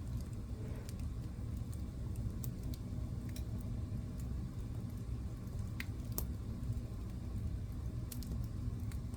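Wood fire burning in a fireplace: a steady low rumble of flames with irregular sharp crackles and pops, a couple of louder pops around six seconds in.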